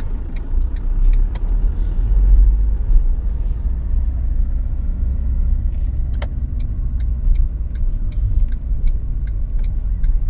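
A car driving, with a steady low rumble of engine and road. Regular short ticks come about three a second, in one run near the start and another from a little past halfway.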